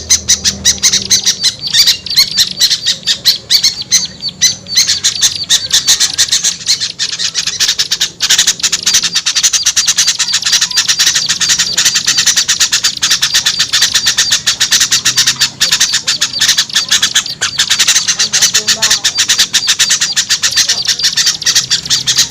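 A small-bird lure recording: several small birds giving harsh, rapid chattering calls at once, a dense and unbroken noisy chorus.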